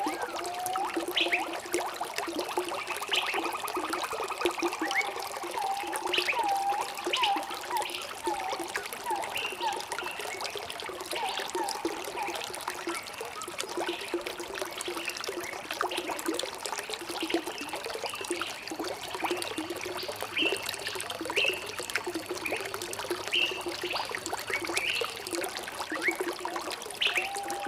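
Running water trickling and splashing steadily, with birds chirping and calling over it: a fast trill about three seconds in, then a run of short repeated notes, and scattered chirps throughout.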